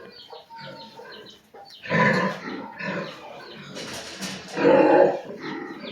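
Pigs calling, a sow with her newborn litter: harsh grunts and squeals, the two loudest about two seconds in and near five seconds, with softer ones between.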